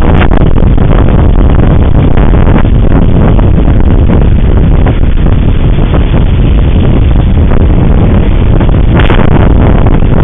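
Strong wind buffeting the microphone: loud, rumbling, gusty noise with no let-up.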